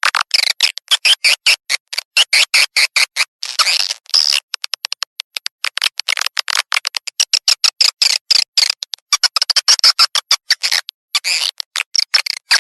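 Swiftlet calling sound: dense, very rapid twittering chirps, broken by short sharp silent gaps, played as a lure to draw swiftlets to roost.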